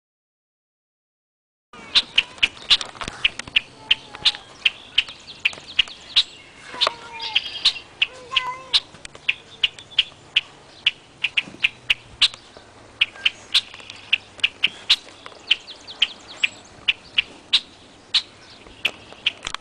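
Footsteps crunching on a path, after a second or two of dead silence: a sharp crunch about every half second, irregular, as from more than one walker. A few short squeaky calls come near the middle.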